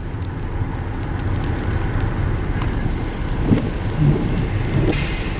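Car driving in the rain, heard from inside the cabin: a steady low rumble of tyres and engine on the road, with a brief hiss about five seconds in.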